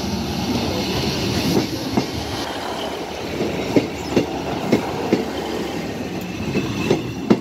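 A GWR Class 150 diesel multiple unit passes close by over the level crossing with a steady rumble. Its wheels click sharply over the rail joints, and the clicks come more often in the second half.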